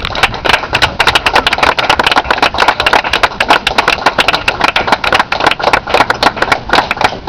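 A small audience clapping, loud, with dense, irregular claps many times a second.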